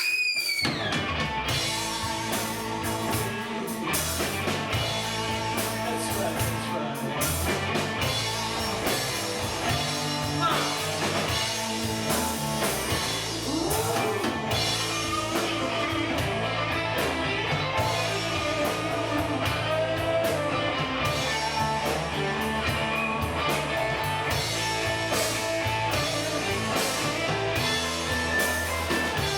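Live rock band playing, with electric guitars and a drum kit; the band kicks in suddenly at the very start.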